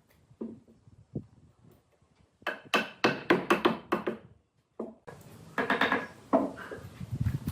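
Wooden knocks: a few scattered taps, then a quick run of hard strikes at about six a second, followed by a rougher, steadier noise near the end.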